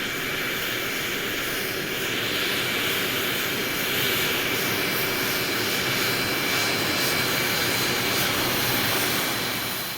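Jet airplane engine noise: a steady, dense rush with a thin high whine. It grows a little louder about four seconds in and begins to fade near the end.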